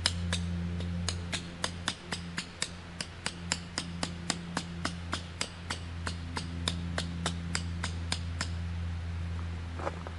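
A fast, even run of sharp clicks, about three a second, over a steady low hum; the clicking stops about eight and a half seconds in.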